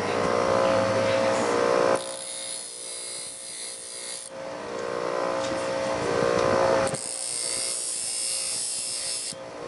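Motorised sharpening wheel running steadily, with the Leatherman Wave's knife blade ground against it in two passes of about two seconds each, each a bright hissing grind. The grinding raises a wire edge along the blade.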